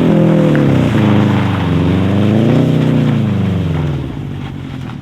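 Subaru flat-four engine breathing through a new aftermarket cat-back exhaust, revved hard under acceleration. The pitch climbs, drops briefly, climbs again, then falls away as the revs come down.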